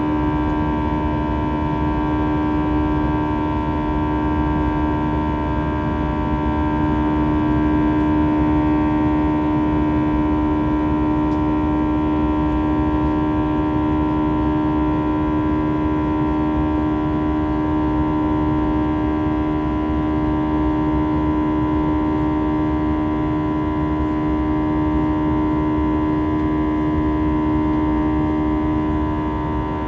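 Steady drone of an Airbus A320 heard inside the cabin: jet engine and airflow noise with a steady hum made of several held tones over a low rumble.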